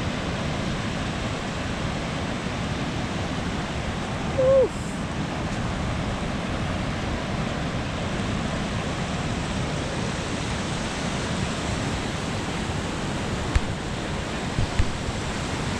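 Steady rush of surf washing on the beach at high tide. A brief voice-like sound, rising then falling, comes about four and a half seconds in, and two short knocks come near the end.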